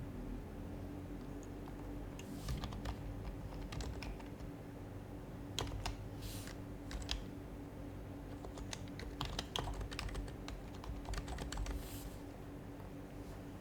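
Typing on an HHKB Professional HYBRID Type-S keyboard, its silenced Topre capacitive keys tapping in irregular bursts with short pauses between.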